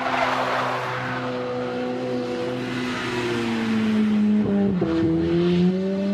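Car engine revving hard as the car spins its wheels on snow, with a rush of tyres and spraying snow in the first second. The engine note holds steady, then drops and wavers up and down in pitch.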